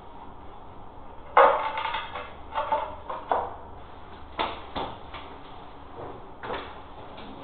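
A run of irregular knocks and clatters from hard objects being handled and set down. The first, about a second and a half in, is the loudest and rings briefly; lighter knocks follow every second or so.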